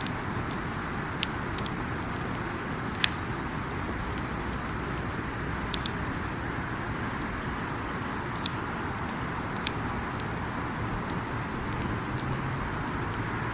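Wood campfire crackling: sharp pops every second or two, the loudest about three seconds in, over a steady rushing noise.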